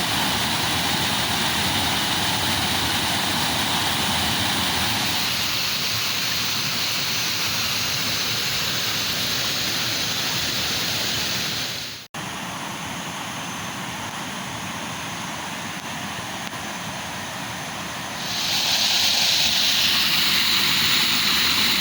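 Waterfall rushing steadily, a continuous roar of falling water. It breaks off for an instant about twelve seconds in, comes back quieter, and grows louder again near the end.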